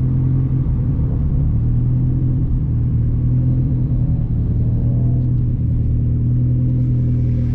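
Turbocharged Hyundai Genesis engine running at a steady, low pitch: a deep, even drone with no revving.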